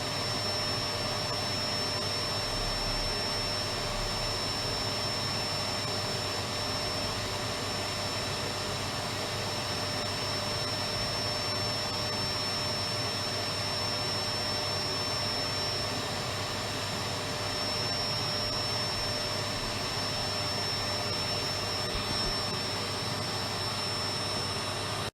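Electric vacuum cleaner running steadily: a continuous even rushing hum with a steady high motor whine.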